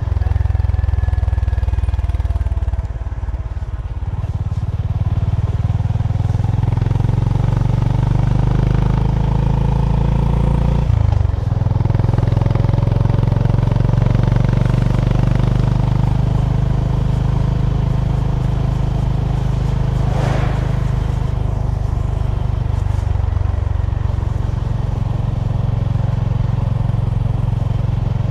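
Honda GB350's air-cooled single-cylinder engine running as the motorcycle rides along at road speed. The note eases off about three seconds in and shifts sharply about eleven seconds in, like a gear change, then runs on steadily.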